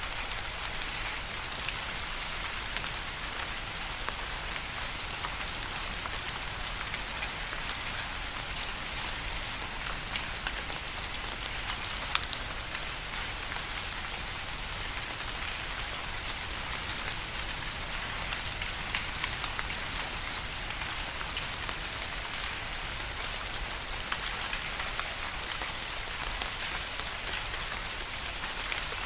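Steady rain falling, a continuous hiss with many close, scattered drop ticks.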